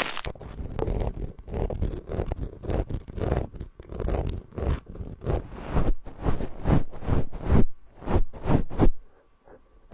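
Repeated scratchy brushing strokes of an ASMR trigger tool rubbed right against the microphone. The strokes come faster about six seconds in and stop near the end.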